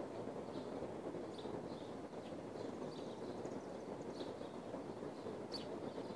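Small birds chirping in short, scattered calls over a steady low background rumble, with one sharper chirp near the end.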